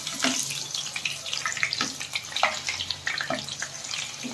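Cut potato pieces sizzling in hot oil in a pan: a steady hiss with irregular crackling pops.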